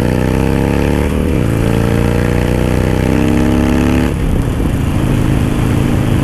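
Harley-Davidson Sportster V-twin with an aftermarket Dan Moto exhaust accelerating under load, its pitch climbing, with an upshift about a second in. About four seconds in the throttle eases off and the engine settles to a steady lower drone.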